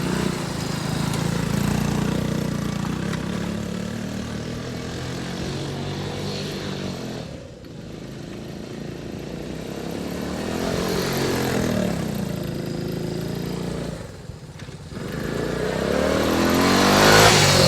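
Small motorcycle engine running and revving while doing donuts, dropping off briefly twice and then revving up to its loudest near the end.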